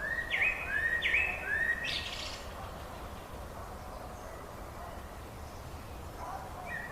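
Bird song: three short whistled notes in the first two seconds, each swooping up and then levelling off, followed by a pause and more song near the end, over a faint steady background hiss.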